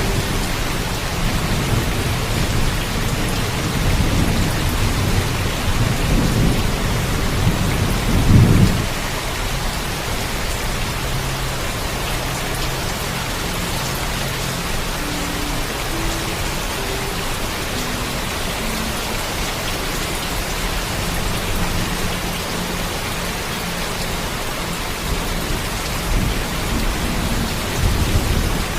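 Heavy, steady rainfall with a low rumble of thunder that builds over the first several seconds and peaks about eight seconds in, then fades, leaving the rain alone.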